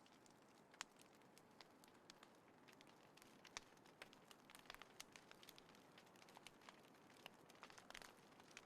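Wood fire burning in a small folding fire pit, crackling faintly with sharp, irregular pops over a soft hiss. Slightly louder pops come about a second in and again around three and a half seconds in.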